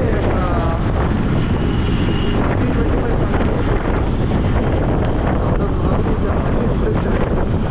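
Heavy wind buffeting the microphone of a rider on a moving motorbike, with road and traffic noise underneath and a brief high tone about two seconds in.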